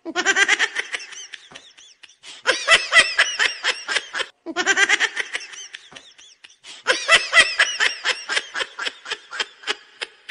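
A recorded laugh playing in quick high-pitched 'ha-ha' bursts, the same laugh repeating about every four and a half seconds like a looped clip.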